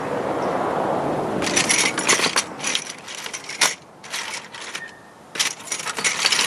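Small metal chain links rattling and clinking in quick bursts as the chain is handled. A rushing noise comes first, then gives way to the rattling about a second and a half in.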